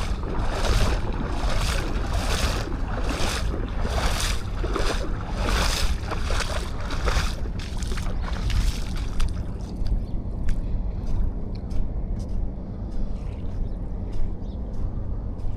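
Footsteps crunching on beach sand at a walking pace, about one step every 0.8 s, over a steady low rumble of wind on the microphone and surf. About nine seconds in the steps stop, leaving the rumble and a few small clicks.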